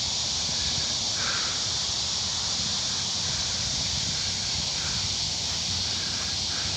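Outdoor ambience: a steady high-pitched hiss, with a few faint short calls about a second in, near the middle and near the end.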